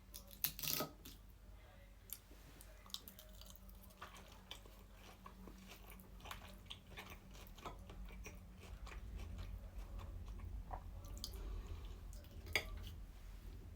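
Close-up eating sounds: a person chewing and biting pasta salad with chicken, with irregular wet smacks and soft clicks of the mouth, a few louder ones near the start and toward the end.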